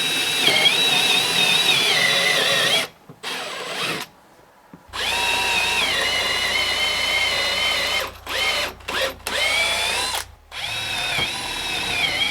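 Electric drill boring a 7 mm pilot hole into a timber door post for a hinge pin. It runs in several bursts with short stops, and the whine drops in pitch as the bit bites into the wood.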